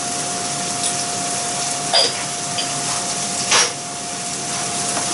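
Chopped onion, shallots and garlic sizzling in hot olive oil in a frying pan, a steady hiss that shows the oil is hot. Two short scrapes of a utensil against the pan as they are stirred, about two seconds in and again a second and a half later.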